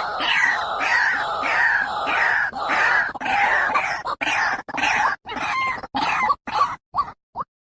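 White-breasted waterhen calling: a rapid series of harsh repeated croaking notes, about three a second, breaking up in the second half into shorter choppy notes with sudden gaps.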